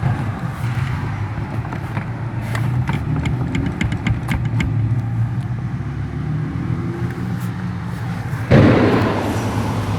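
Chevrolet S10 pickup idling steadily, with a run of quick clicks from the steering column in the middle: the mechanic suspects a worn elastic joint (flexible coupling) on the steering shaft, which has a lot of play. Near the end a louder rushing noise sets in.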